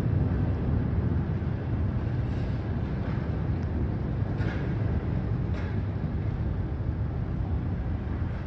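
Nishitetsu 6000/7050-series electric train moving away along the track: a steady low rumble that slowly fades, with a few faint ticks.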